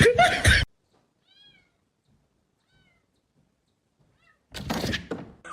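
A few faint, short cat meows in near quiet, after a scraping noise cuts off just under a second in; a loud burst of noise comes near the end.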